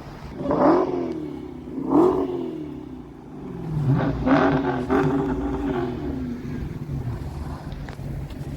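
Car engine revving: two short blips, then a longer rev that settles into steady running.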